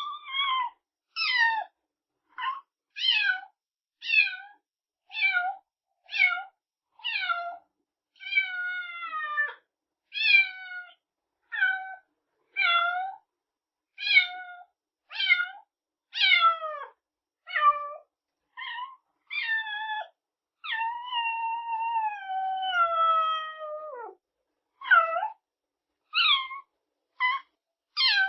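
Kitten meowing over and over, about one high meow a second, each falling in pitch. Two longer, drawn-out meows come about a third of the way in and again past two-thirds.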